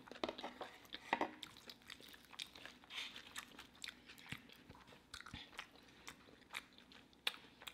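A person chewing a mouthful of crispy deep-fried taco, with faint crunches and clicks at irregular intervals.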